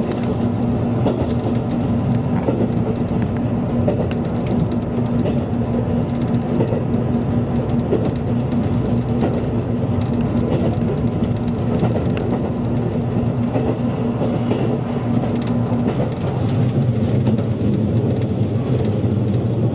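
Train running at speed, heard from inside the passenger car: a continuous rumble of wheels on rail with a steady hum. About sixteen seconds in the hum stops and the running noise gets a little louder.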